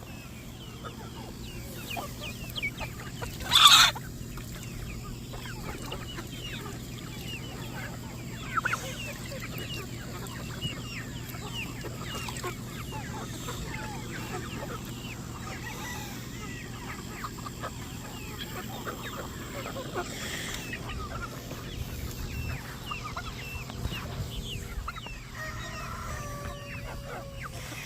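A flock of chickens clucking and chirping steadily, with many short overlapping calls, over a steady low hum. There is one short, louder sound about four seconds in.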